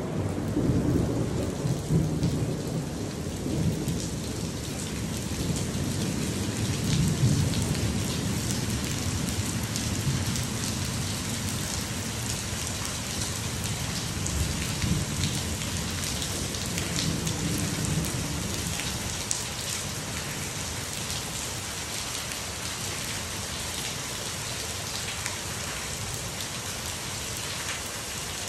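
Heavy rain pouring steadily onto a swimming pool, concrete deck and screen enclosure, with low thunder rumbling, strongest in the first half and easing off later.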